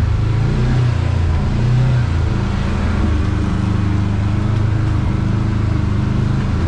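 Kawasaki KRX side-by-side's parallel-twin engine running steadily at trail speed, its pitch rising and dipping slightly in the first couple of seconds.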